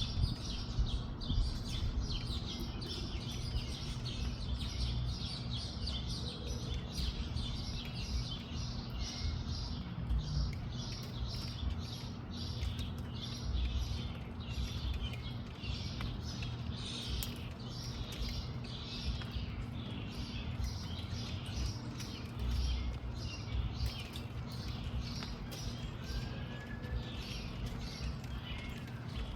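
Small birds chirping over and over, a rapid string of short high chirps, over a low, gusting rumble of wind on the microphone.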